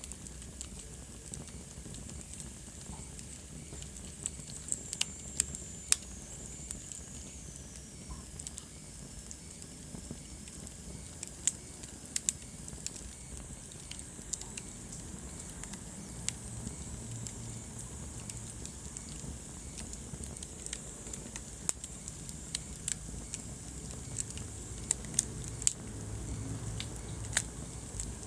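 Wood fire in a fireplace crackling steadily, with sharp pops scattered irregularly through it. A faint high whistle slides down in pitch for a few seconds near the start.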